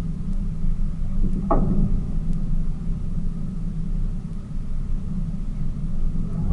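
Tour boat's engine running steadily with a low rumble, with a brief squeak about one and a half seconds in.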